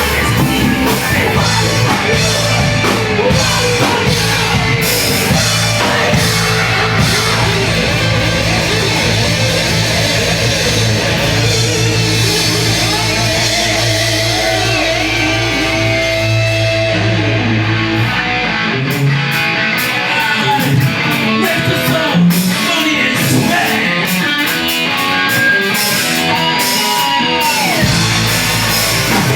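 Loud rock music from a post-hardcore band: electric guitars and a drum kit. About two-thirds of the way in the low end drops away, and it comes back in near the end.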